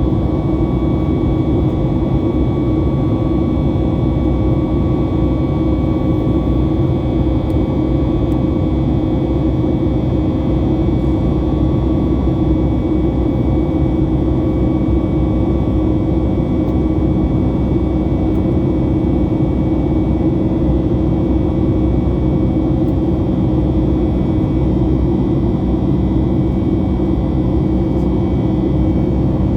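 Boeing 737 MAX 8's CFM LEAP-1B jet engines and airflow heard from inside the cabin during the climb after takeoff: a steady loud rumble with several steady whining tones above it, one of which fades about a third of the way in.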